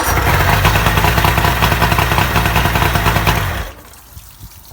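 Evinrude three-cylinder two-stroke outboard motor running loudly; the sound comes in suddenly, holds steady for about three and a half seconds, then cuts off.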